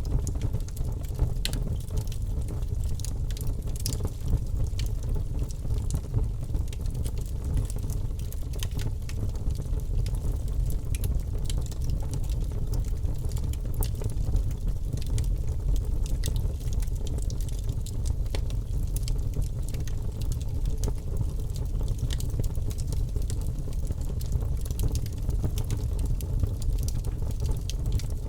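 Wood fire crackling and popping in a fireplace: many small irregular snaps over a steady low rumble.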